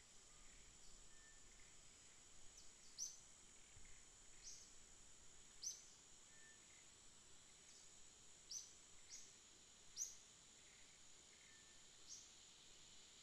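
Faint bird chirps, about eight short high calls scattered through, over a steady high-pitched whine.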